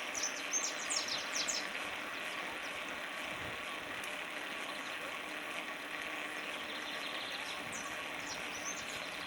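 Birds chirping in short high calls for the first second or two and again near the end, over a steady rushing background noise.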